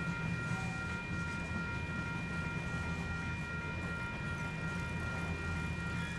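Freight train of open-top coal hopper cars rolling past with a steady low rumble of wheels on rail. A steady high whine in several tones sits above the rumble.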